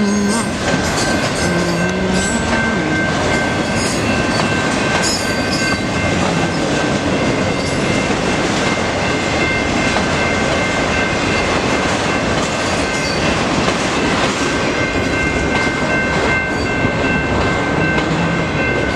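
Norfolk Southern mixed freight train rolling past at a road crossing, autorack cars going by with a loud, steady rumble and clatter of wheels on the rails. A steady high ringing sits over it throughout.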